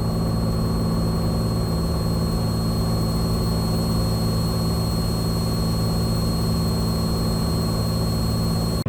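Cessna 182T's engine and propeller droning steadily in the cabin at approach power, with a thin high steady whine over it. The sound drops out briefly near the end.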